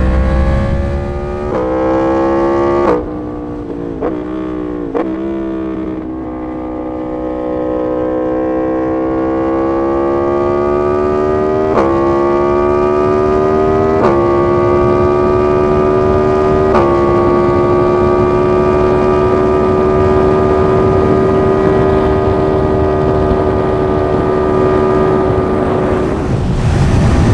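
Yamaha MT-10 SP's crossplane inline-four through an SC Project exhaust, under way. In the first few seconds the engine note climbs and breaks, then drops, with a couple of short blips of the throttle. After that the revs rise gradually and settle into a steady cruising note for the second half.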